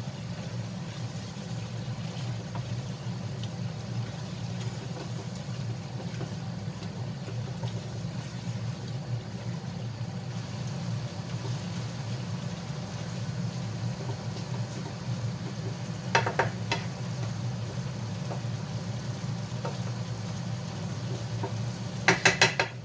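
Adobo with tofu and long beans sizzling in a wok as it is stirred with a wooden spatula, over a steady low hum. The spatula knocks against the pan about 16 seconds in and again in a quick run of taps near the end.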